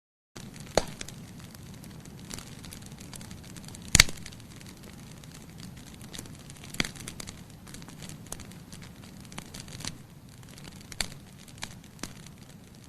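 Wood fire crackling, with irregular sharp pops over a low steady rush, the loudest pop about four seconds in.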